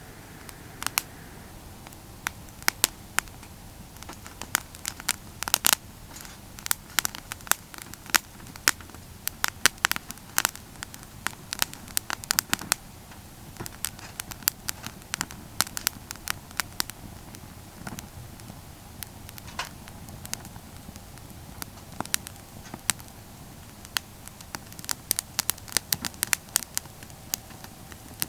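Wood campfire crackling: irregular sharp pops and snaps, many in quick clusters, over a low steady hiss.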